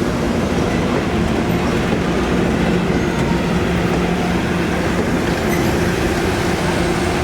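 A train running, with a steady low hum over continuous rumbling noise.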